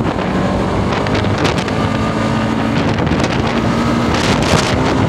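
Kawasaki Rouser RS200's single-cylinder engine running steadily while the motorcycle cruises, with wind rushing over the microphone.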